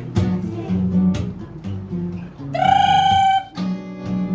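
Acoustic guitar strummed in a steady rhythm of chords. About two and a half seconds in, a single high note is held for about a second over the guitar.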